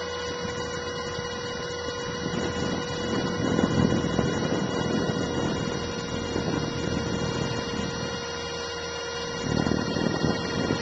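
Align T-Rex 450 SE V2 electric RC helicopter heard from a camera in its own canopy: a steady whine from the brushless motor and gears over the rush of the spinning rotor. Rougher rushing swells come in a few seconds in and again near the end.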